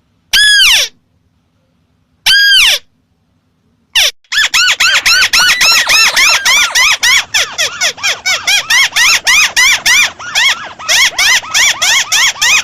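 Lure-call recording of a crake (burung tikusan) calling: two single calls that rise and then fall in pitch within the first three seconds, then from about four seconds a fast, unbroken series of the same call, three to four a second.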